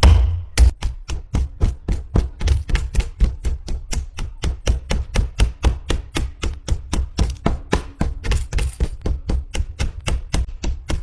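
Rapid, even tapping on a hard surface, about five taps a second, each with a dull thud.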